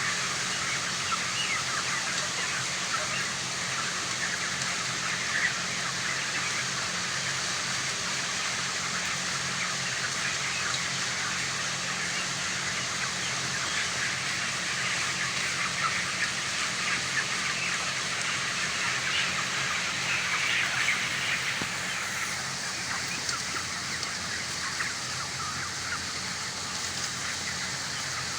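A large flock of young broiler chickens feeding in a poultry house: a dense, continuous chatter of many short cheeps and clicks from the birds, over a steady low machine hum.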